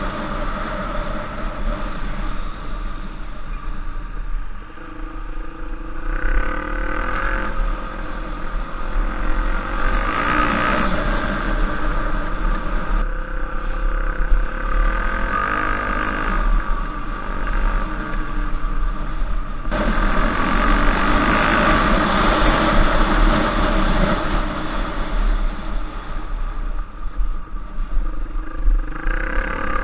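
Trail motorcycle engine running under changing throttle, its revs rising and falling in surges every few seconds over a steady low rumble.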